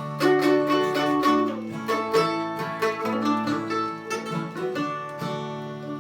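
Acoustic string band playing an instrumental break: quick picked notes on plucked string instruments over steady low chords.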